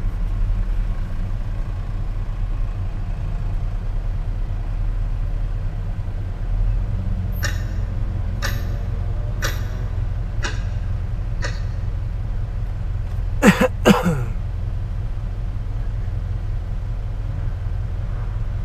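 Steady low hum of a car idling, heard inside the cabin. Five clock ticks about one a second come midway through, then two short loud vocal sounds half a second apart.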